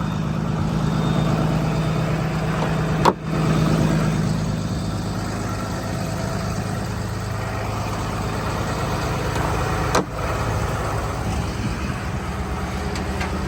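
Cummins 6.7 diesel engine of a Freightliner truck idling steadily, with two sharp knocks, about three seconds in and about ten seconds in.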